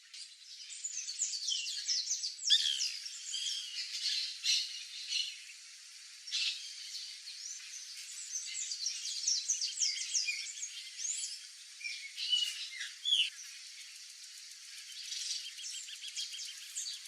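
White woodpeckers (Melanerpes candidus) calling: a busy run of short, sharp squawks and chirps, several overlapping, which thin out briefly and then pick up again.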